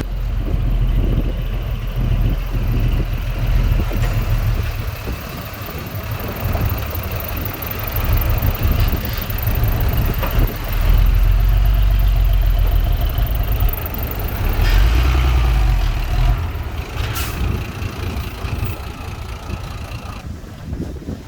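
Heavy diesel engine of earth-moving machinery running, a continuous low rumble that grows louder for several seconds from about halfway through, with a brief sharp knock a few seconds before the end.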